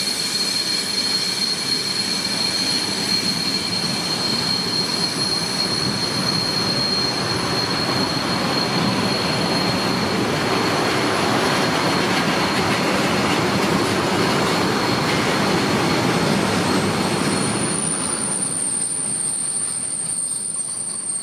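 Freight wagons of a long mixed goods train rolling past, a continuous noise of wheels running on the rails with a steady high wheel squeal. The squeal fades out about seventeen seconds in, and a thinner, higher squeal starts just after as the noise eases a little.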